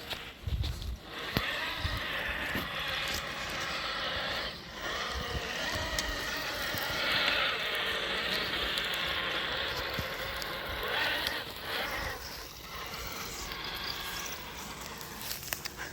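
Traxxas TRX6 1:10 RC crawler driving, its electric motor and drivetrain whining, louder and softer as it pulls and eases off, with a few short clicks.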